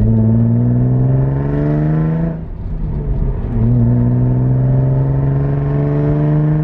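Car engine and exhaust pulling under acceleration, the pitch climbing steadily, then a brief dip about two and a half seconds in as the gear changes, and a second slower climb in the next gear.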